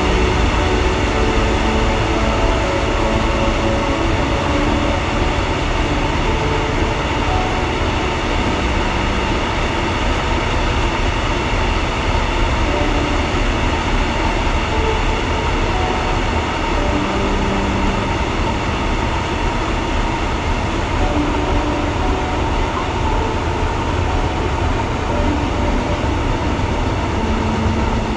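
Heavy freight train of loaded four-axle coal wagons rolling steadily along the track: a continuous rumble of wheels on rail, with short tones drifting in and out over it.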